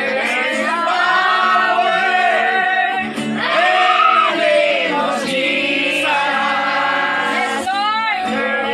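Choir singing a gospel worship song, several voices together over a steady low accompaniment.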